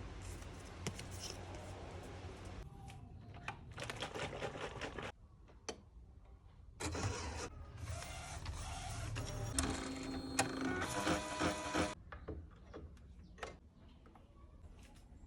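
DTF inkjet printer running, its print-head carriage and feed mechanism moving. The sound starts and stops abruptly several times, with a brief motor whine about ten seconds in.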